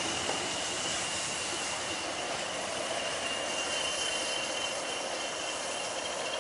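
Train rolling away along the line, its wheels on the rails giving a steady rumbling hiss with a thin, steady high squeal, slowly fading as the rear coach draws off.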